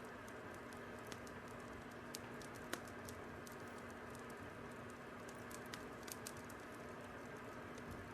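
Fire crackling faintly: irregular, scattered pops and snaps over a steady low hiss and hum, with one sharper pop near the middle.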